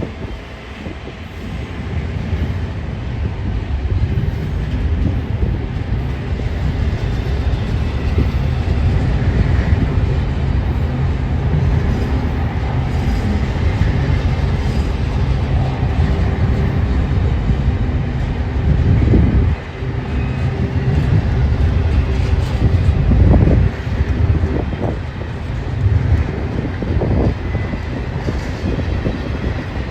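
BNSF freight train rolling past: a steady, loud low rumble of wheels on rails, with some wheel clatter.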